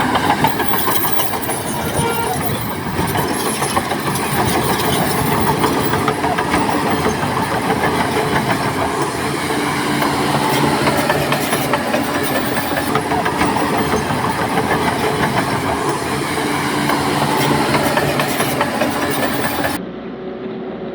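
Heavy earthmoving machinery working rock: a diesel engine running under load with continuous clanking and grinding of rock. About a second before the end the sound abruptly turns duller and a little quieter.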